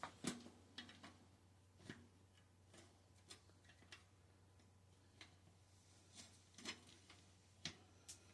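Faint, irregular clicks and light knocks from a bicycle's rear wheel being handled and fitted into the frame, over a low steady hum.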